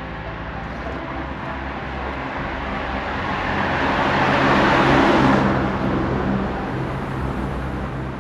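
A car passing by on the road. Its rushing tyre and engine noise swells to a peak about five seconds in, then fades away.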